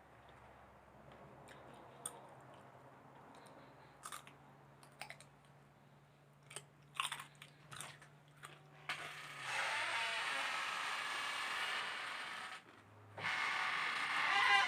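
Close-up chewing and biting with scattered soft crunches and clicks, then a loud steady hiss lasting about three and a half seconds and a second shorter hiss near the end.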